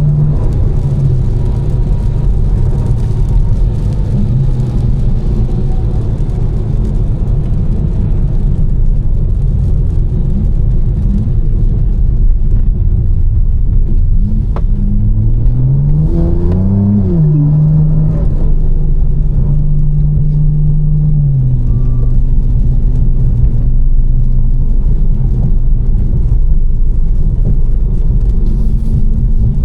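Tuned BMW M4's twin-turbo straight-six, fitted with catless downpipes and an Fi exhaust, running at a steady cruise over constant wet-road noise. About halfway through the revs climb briefly and drop back at a gearshift, hold steady, then fall again a few seconds later.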